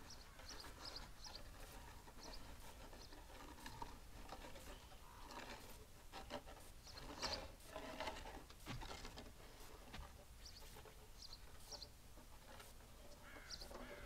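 Quiet outdoor ambience with faint, scattered high chirps of small birds and a few soft rustles about halfway through.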